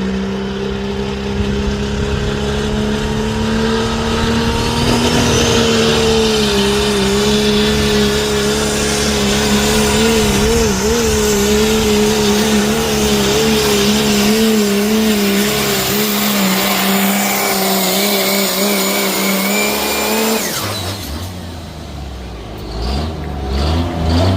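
A pulling truck's engine at full throttle dragging the weight sled. Its pitch climbs for the first few seconds, then holds and wavers, with a high whine rising alongside. The engine sound cuts off abruptly about twenty seconds in as the truck comes off the throttle, leaving lower, quieter engine sound.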